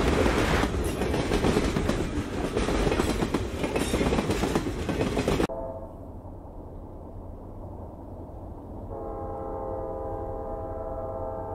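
Train passing close, rumbling and clattering on the rails, which cuts off suddenly about halfway through. A quieter low rumble follows, and from about nine seconds in a train horn sounds one long, steady blast.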